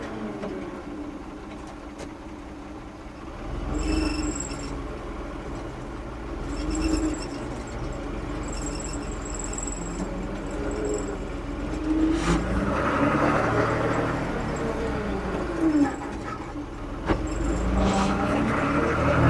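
Diesel engine of a 1975 Ford 550 backhoe running under work, its pitch rising and falling several times as the engine speed changes. Brief high-pitched squeaks come now and then.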